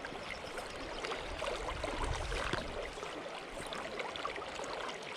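Steady rushing of a small river's current, running high after floods.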